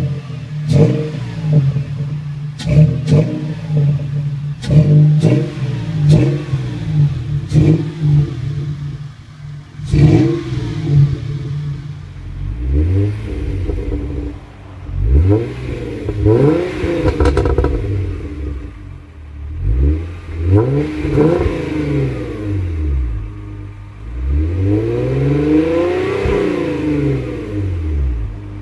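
A car engine revved hard through its exhaust: a string of short, sharp throttle blips for about ten seconds, then several slower revs that climb and fall back.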